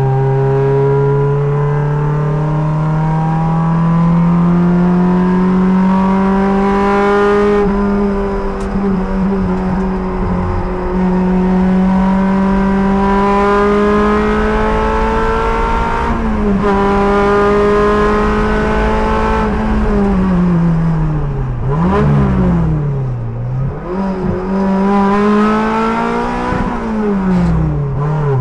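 Race car engine under hard acceleration, its note climbing through the gears with upshifts about 8 and 16 seconds in. It then slows with two quick throttle blips on downshifts, pulls hard again, and lifts off near the end.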